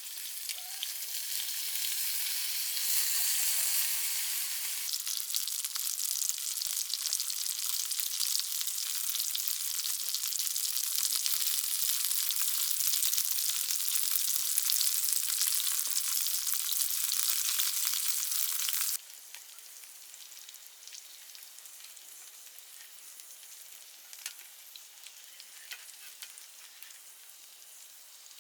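Food frying with a dense, steady sizzle. About two-thirds of the way through it drops suddenly to a much fainter sizzle with a few small pops.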